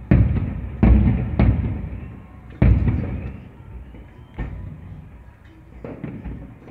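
Aerial fireworks shells bursting: about six sharp booms, spaced irregularly, each followed by a long echoing rumble that fades away.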